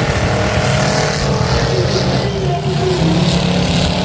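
Demolition derby cars' engines running and revving, several at once, their pitches rising and falling.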